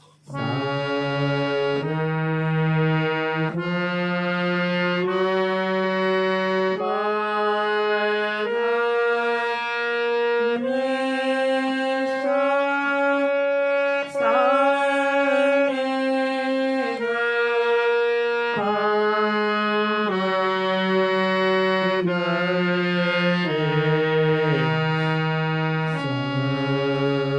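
Harmonium playing a sargam alankar note by note at a slow single tempo, each note held about a second and a half, stepping up and down the scale.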